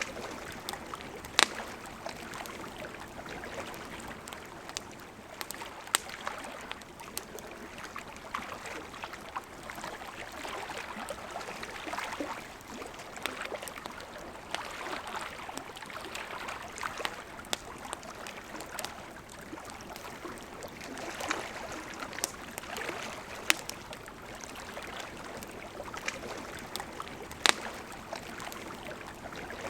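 River water flowing steadily, with the sharp crackles and pops of a campfire scattered through it; the loudest pops come about a second and a half in, about six seconds in and near the end.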